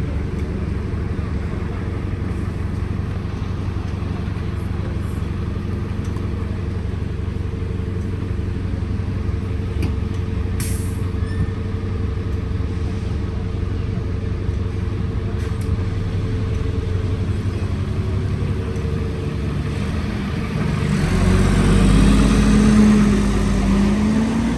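Alexander Dennis Enviro400 double-decker bus engine running steadily, heard from inside the bus, with a short sharp click about ten seconds in. About 21 seconds in it gets louder and a whine climbs in pitch as the engine revs up.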